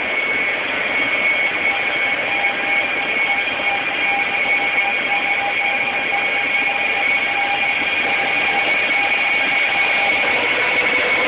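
E1 series double-decker Shinkansen pulling away from the platform: a steady rush of running noise with high steady tones over it, and a whine that begins to rise near the end as the train picks up speed.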